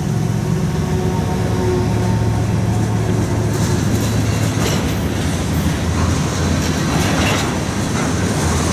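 A train passing close by: a steady low locomotive engine drone under the rumble and clatter of wheels on the rails.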